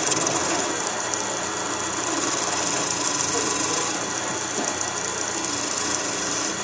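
Wood lathe running steadily, with a hiss that comes and goes as a hand tool works the spinning wood of a small ornament, thinning its base.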